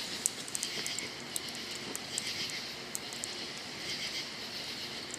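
Wood campfire crackling, with irregular sharp pops, over a steady pulsing chirr of crickets.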